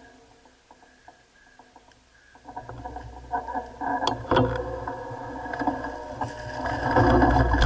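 Mountain bike descending a dirt trail: quiet at first, then rattling and clattering over rough ground that builds from a few seconds in, with a couple of sharp knocks. Near the end it gets louder, with a low rumble of wind on the microphone as speed picks up.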